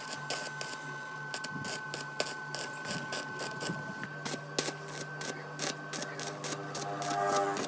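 Hand work on metal generator parts: irregular sharp clicks and light taps of tools and parts being handled, over a steady hum.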